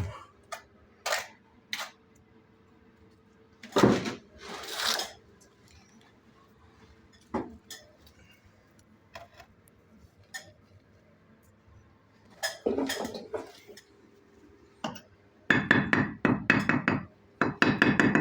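Bricklaying: a metal trowel and bricks clink and knock in scattered single strikes. There is a louder knock and a short scrape about four seconds in, and a dense run of quick clinks near the end.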